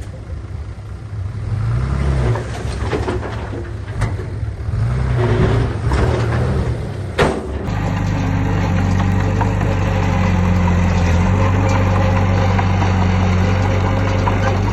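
Heavy diesel engines of construction machinery working, their pitch rising and falling with load for the first half. A short sharp hiss or clank a little after seven seconds, then a steadier, heavier engine drone.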